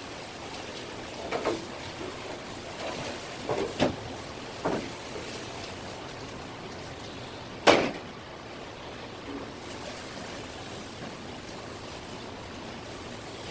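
Kitchen knife and fish handled on a cutting board: a few scattered soft knocks, then one sharp, louder knock a little past halfway, over a steady hiss.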